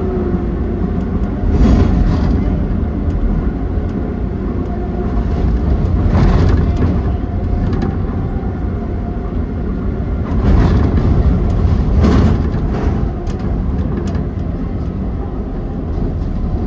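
Docklands Light Railway B92 stock train running, heard from inside the carriage: a steady low rumble of wheels on track with a faint motor hum, swelling louder four times.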